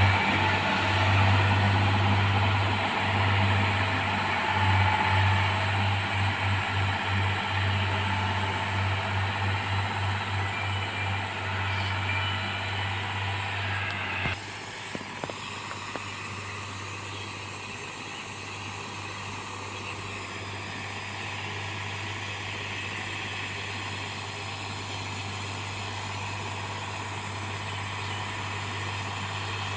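Heavy diesel engine of a railway track-renewal machine running with a low throbbing beat. About halfway through the sound changes abruptly and settles into a quieter, steady hum.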